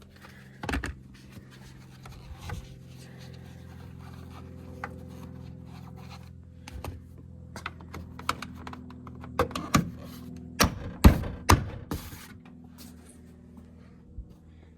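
Scattered sharp knocks and clicks of parts being handled, most of them and the loudest near the end, over a steady low hum.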